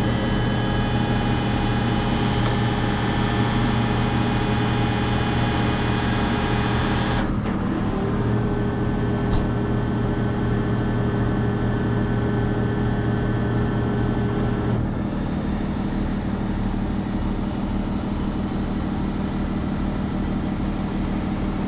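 Peterbilt 389X rotator wrecker's diesel engine running steadily with a whine over a low hum. Its tone shifts about 7 seconds in and again about 15 seconds in.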